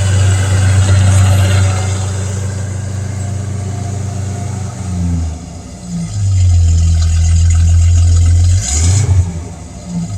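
1978 Ford straight-six engine running and being revved, its level rising and falling and easing off twice, as it burns off a dose of Seafoam engine cleaner drawn in through a vacuum hose.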